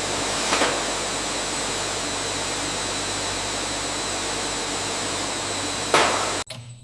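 Steady rushing, hiss-like noise with a brief swell about half a second in and a sharper one near the end, then it cuts off suddenly.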